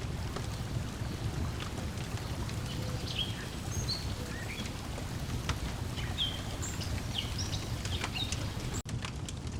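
Layered lakeside ambience: a steady low wash of lake water lapping at the shore, scattered crackles and pops from a wood fire, and short bird chirps. About nine seconds in, the sound briefly drops out, like a splice in the loop.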